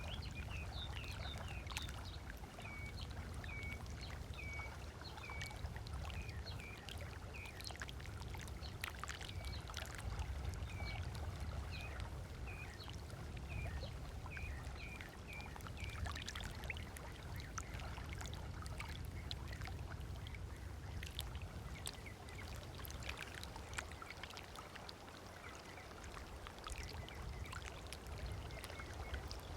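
Small waves lapping and splashing on a sandy lake shore over a steady low rumble. A bird calls with a short repeated note, about two a second, through the first half.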